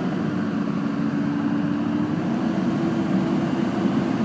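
A 2001 HD 2500 pickup's Duramax 6.6-litre V8 turbo diesel pulling the truck along the road, heard from inside the cab with road noise. It is a steady drone whose pitch rises slightly about halfway through.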